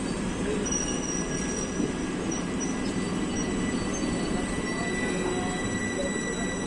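Express passenger train rolling past on the rails with a steady rumble of wheels, and a thin, steady high squeal from the wheels running through it.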